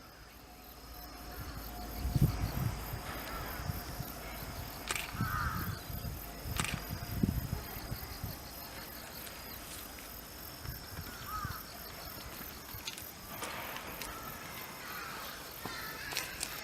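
Outdoor ambience with a few short bird calls, some sharp clicks and low thumps.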